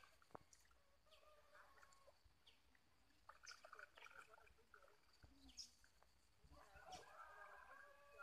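Faint, scattered bird calls, with a short flurry of calls near the end.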